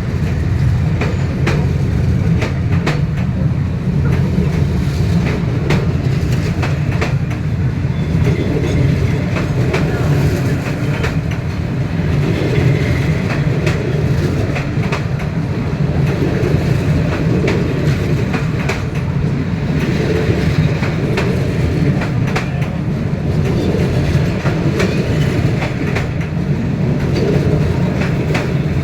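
Passenger train rumbling past at very close range, a steady heavy low rumble with a continual run of wheel clicks and knocks.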